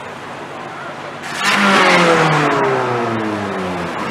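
A car engine accelerating loudly from about a second in, then its note sliding steadily down in pitch as it goes, over steady street traffic.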